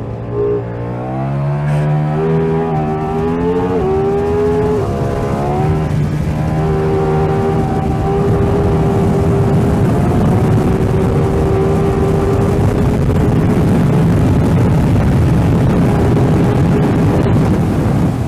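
Ducati Diavel V4's V4 engine accelerating hard, its pitch climbing through a gear, with a drop at a shift about five seconds in, then holding a steady high pitch under rushing wind noise.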